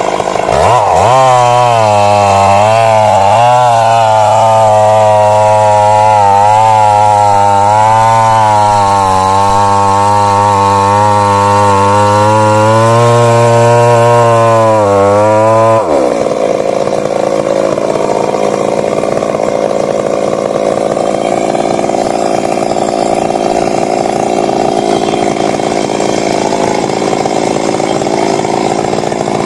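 Stihl MS 382 two-stroke chainsaw running hard in a cut, its engine speed wavering up and down. About halfway through the pitch jumps sharply higher and holds there.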